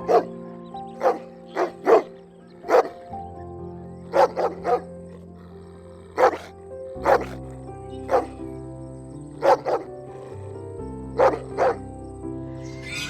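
An animal barking in short, sharp barks, singly and in quick pairs, about one every second and irregular. Background music with long held chords plays under them.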